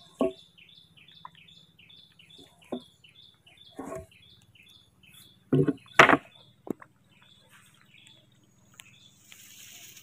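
A bird calling in a rapid, even series of short high chirps, about three a second, for most of the time. Several sharp knocks fall among them, the loudest about six seconds in, and there is a rustle near the end.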